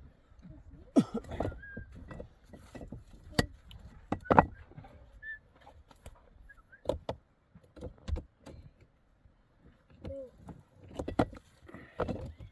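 Irregular sharp knocks and clatters of hard objects being handled, about a dozen over the stretch, with a few brief chirp-like tones among them.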